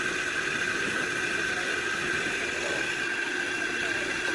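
A steady machine whir with a constant high tone running through it, unchanging in level.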